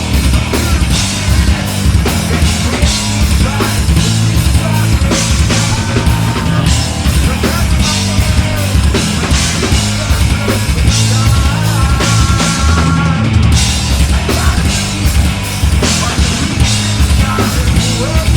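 Heavy metal band playing live at full volume: a pounding drum kit under dense, low-pitched instruments, with no pause.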